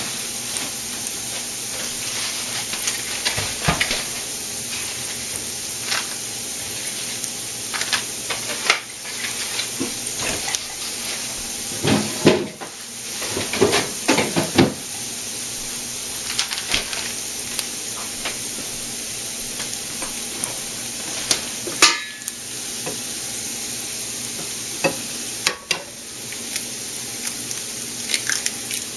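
Diced green pepper and onion sizzling in olive oil in a frying pan, a steady hiss throughout. Clusters of sharp clicks and scrapes from the food being stirred against the pan come through the middle, with single knocks later.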